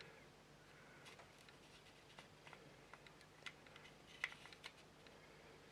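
Near silence with faint, scattered small clicks and taps of plastic model-kit parts and tools being handled, the sharpest about four seconds in.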